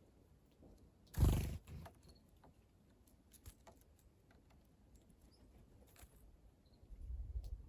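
Faint short calls of small wild birds at a water basin, with a brief loud rush of noise about a second in and low rumbling near the end.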